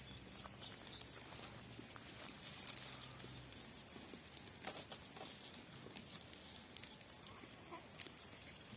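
Faint farmland ambience: a short high bird chirp right at the start, then scattered soft clicks and rustles, with a low steady hum that fades out about three and a half seconds in.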